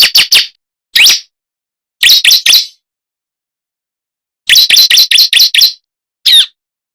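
Ciblek (prenjak jali), a prinia, giving its sharp, high chirping call in short bursts of one to about seven rapid notes, with silent gaps between bursts. It is a played-back lure recording (suara pikat) meant to draw in wild birds of the same species.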